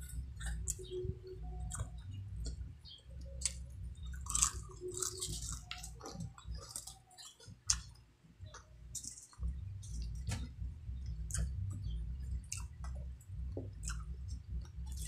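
Close-miked chewing of crispy fried chicken skin: irregular crunches and crackles with wet mouth sounds.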